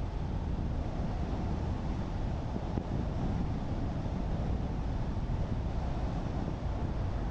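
Steady road noise of a car driving: low tyre rumble on the road with wind noise.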